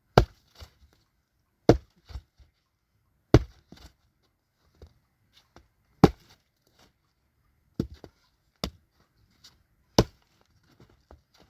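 Chopping: about seven sharp strikes spaced irregularly, a second or two apart, each followed by one or two lighter knocks.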